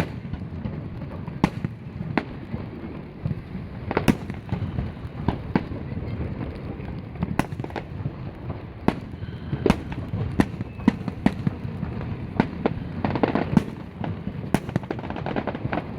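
Aerial fireworks shells bursting in a rapid, irregular series of sharp bangs, with a low rumble continuing between them.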